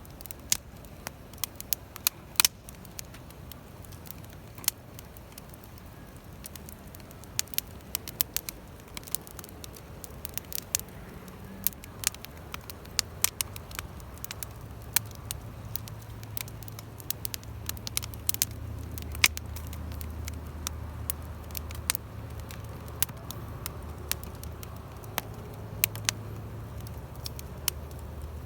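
Wood campfire crackling, with sharp, irregular pops and snaps. A low rumble comes up about halfway through and continues under the crackling.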